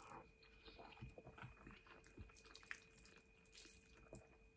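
Faint chewing and mouth noises of someone eating spaghetti, with a few small clicks.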